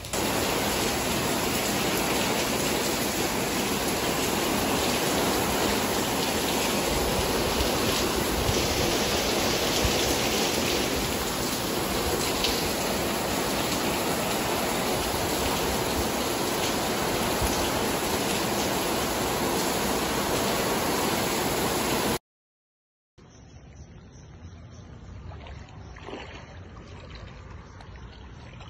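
Heavy rain pouring down in a dense, steady hiss of water. About 22 seconds in it cuts off abruptly, and after a second of silence a much quieter hiss with a few faint knocks follows.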